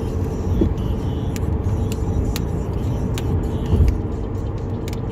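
Car cabin heard from the dashboard while driving: steady low road and engine rumble with a faint constant hum, and a few scattered sharp ticks.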